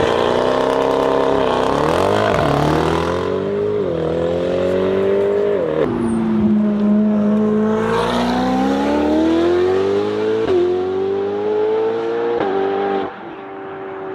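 A car engine accelerating hard up through the gears: the note climbs, then drops abruptly at each of about five upshifts, and the sound falls away quieter near the end.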